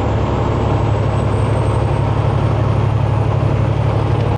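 Semi truck's diesel engine pulling steadily with its 8-inch exhaust stacks droning low, under a thin high turbo whistle that rises slowly in pitch.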